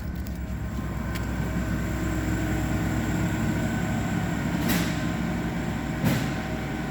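2016 LDV G10's 2.4-litre petrol engine idling steadily, with two short clatters about five and six seconds in. The engine runs evenly, and the seller rates it as tested good.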